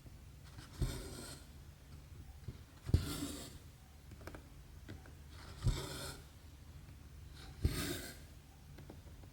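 Cross-stitch needle pushed through 11-count stamped cross-stitch fabric and the embroidery thread drawn through after it, four strokes about every two to three seconds. Each stroke is a soft pop followed by a half-second swish.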